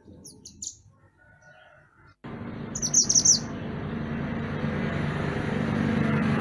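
Mantenan gunung songbird giving short, high chirping notes: a few near the start, then a quick, louder run of chirps about three seconds in. A steady hissing, rumbling background comes in abruptly just after two seconds and continues under the song.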